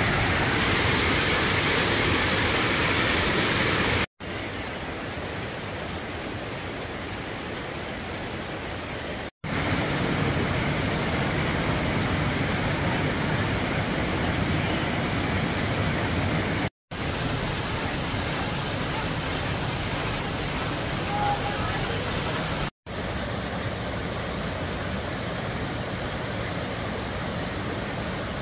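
Waterfall and cascading stream water rushing, a steady even wash of noise. It breaks off for an instant four times, each time resuming at a slightly different loudness.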